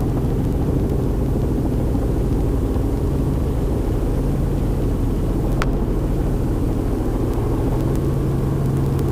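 Cockpit noise of a Robinson R44 Raven II helicopter coming in to land: a steady low drone of the main rotor and piston engine.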